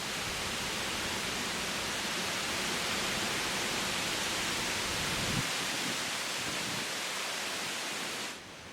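Wind rushing through the tops of tall trees in leaf, a steady rustling hiss that swells and then drops away suddenly near the end. A low rumble underneath stops a little past halfway.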